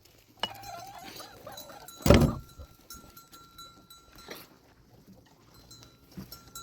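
A sheep or goat bleats once, a short wavering call, and about two seconds in there is a loud thump.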